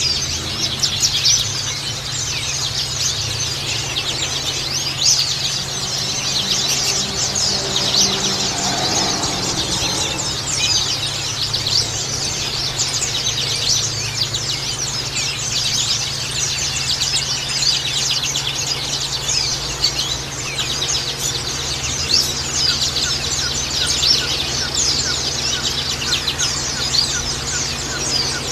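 White-eyes (pleci) chirping in a dense, continuous chorus of fast, high twittering, over a steady low hum.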